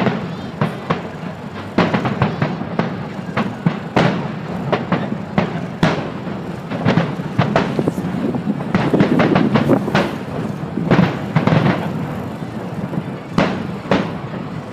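Fireworks bursting in quick, irregular succession: many sharp bangs and crackles over a steady rumble of overlapping explosions.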